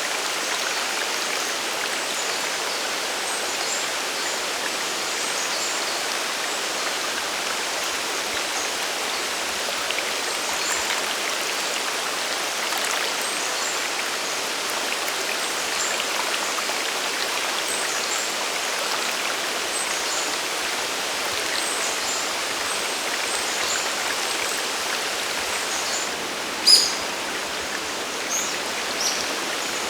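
Rushing water of a waterfall and its mountain stream, a steady even hiss. A few short, sharp high sounds stand out above it, the loudest one near the end.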